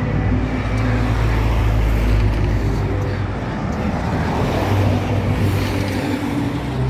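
Motor vehicle engine running close by: a steady low hum over road noise, swelling in the first half and again about two-thirds of the way in.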